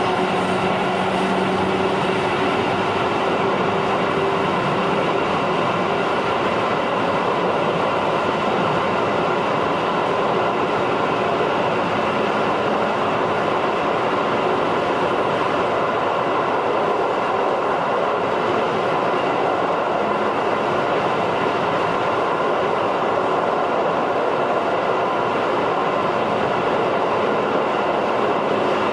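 JR 211 series electric multiple unit running at steady speed, heard from inside the passenger car: continuous rumble of wheels on rail and running gear, with a low hum that fades out a few seconds in.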